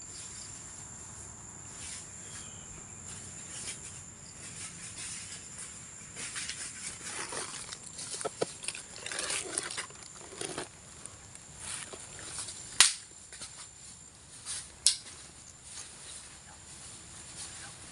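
Rustling and brushing through dry leaves and undergrowth, with two sharp cracks about two seconds apart late on. A thin steady high whine, insect-like, runs under it and stops about two-thirds of the way through.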